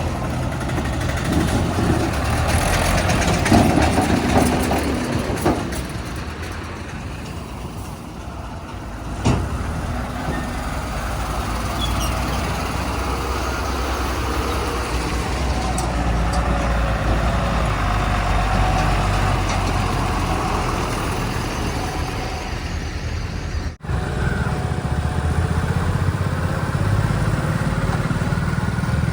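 Diesel engines of a backhoe loader and tipper trucks running steadily at a mud-loading site, with a single sharp knock about nine seconds in. The sound drops out for an instant about three-quarters of the way through.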